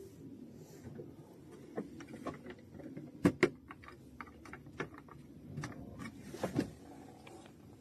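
Scattered sharp clicks and knocks over a low murmur, as of objects being handled, with two loud knocks close together about three seconds in and another pair about six and a half seconds in.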